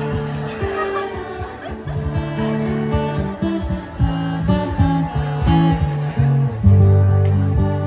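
Live acoustic band playing a song's instrumental intro: plucked and strummed acoustic guitar over a deep, sustained bass line that swells louder near the end.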